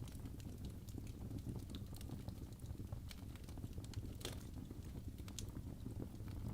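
Wood logs burning in a fireplace: a steady low rumble of flame with irregular sharp crackles and pops throughout, one louder pop a little over four seconds in.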